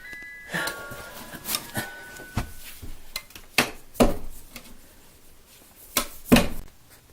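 A series of sharp knocks and clatters of hard objects, about eight in all, the loudest about four seconds in and just after six seconds. The end of a chiming mallet-percussion melody is heard in the first second or so.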